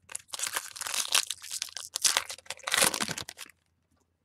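Foil trading-card pack wrapper being torn open and crinkled by hand, a dense crackling rustle for about three and a half seconds that stops abruptly.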